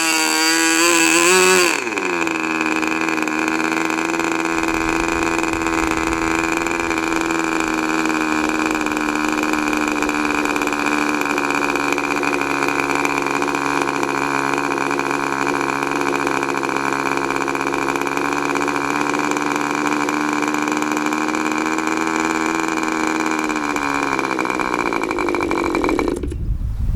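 K&B .40 RC glow engine running at high speed with a slightly wavering pitch, then dropping sharply to a steady idle about two seconds in. Near the end the idle sags and slows, and the engine stops.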